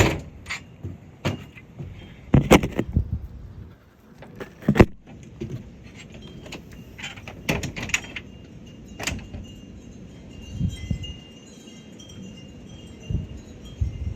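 A series of sharp knocks and bumps over the first nine seconds or so, then light, high tinkling chime tones that come and go.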